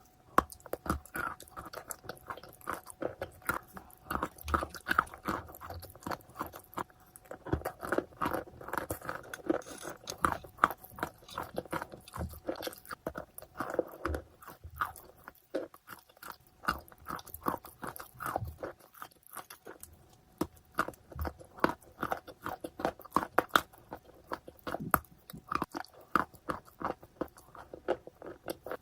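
Someone chewing crunchy food: a continuous run of crisp, irregular crunches with only brief pauses.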